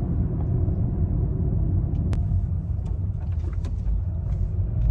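Steady low road rumble inside a moving car's cabin, with one sharp click about two seconds in.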